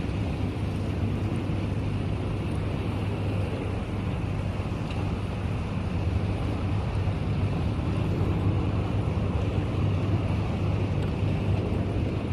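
Steady low engine-like drone under a rushing, wind-like noise, holding an even level without change.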